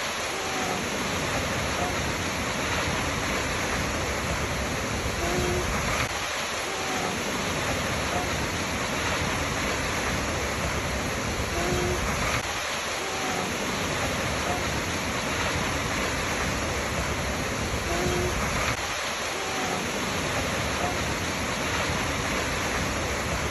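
Waterfall rushing steadily. The recording loops about every six seconds, and a short faint tone recurs with each pass.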